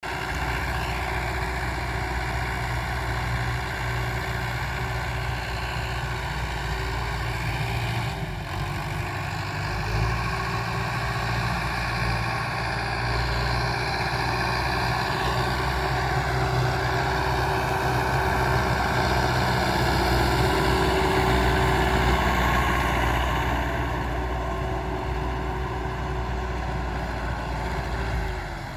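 Power tiller's diesel engine running steadily, a little louder about two thirds of the way through.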